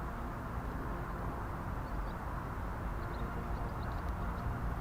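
Steady low outdoor rumble with a faint hum running through it, and a few faint high chirps in the second half.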